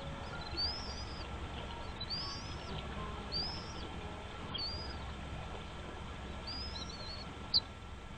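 A bird calling in a series of short, high, arched chirps, about one a second, with one sharper, louder note near the end, over a steady low background hum.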